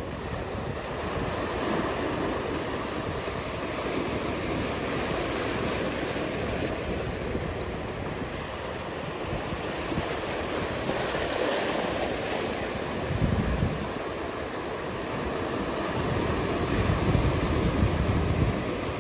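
Ocean surf washing steadily, with gusts of wind rumbling on the microphone about two-thirds of the way through and again near the end.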